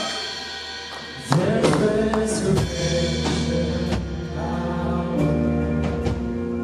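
Live gospel praise-and-worship music: singing voices over a band with sustained keyboard notes and drum hits, the singing coming in about a second in.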